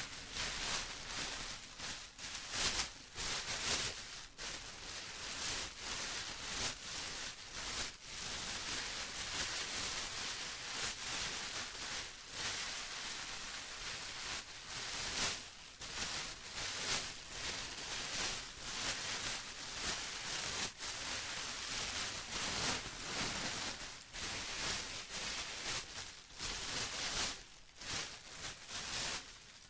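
Plastic being crumpled and rustled by hand: a steady run of irregular crinkling crackles with short uneven pauses.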